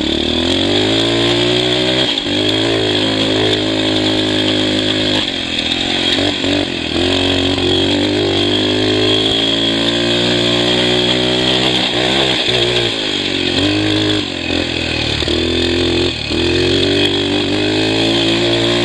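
Kawasaki KLX250's single-cylinder four-stroke engine being ridden hard: its pitch climbs again and again through the gears, dropping at each shift or when the throttle is shut.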